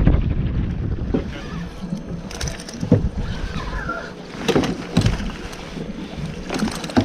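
Wind buffeting the microphone aboard a small fishing boat in choppy water, heaviest in the first second, with several sharp knocks scattered through.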